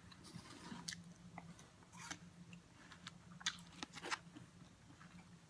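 Quiet, close-up chewing of bionico, a fruit cup of strawberries, apple and banana with cream and granola: scattered wet mouth clicks and smacks with a little crunch. A faint steady hum runs underneath.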